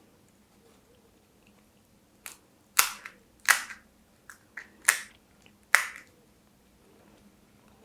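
Crisp fried pani puri shells crunching as they are bitten and chewed: a run of about seven sharp crunches in the middle few seconds, with quiet before and after.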